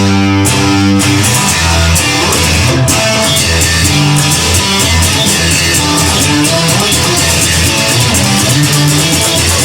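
Rock song instrumental passage with no singing: guitar chords and notes over bass, with a steady beat of drum or cymbal hits.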